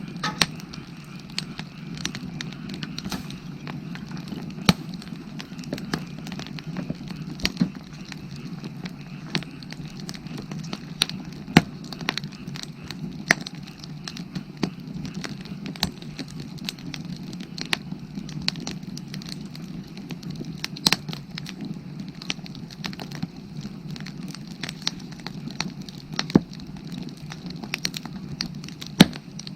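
Firewood burning, with irregular sharp crackles and pops several times a second over a steady low rumble.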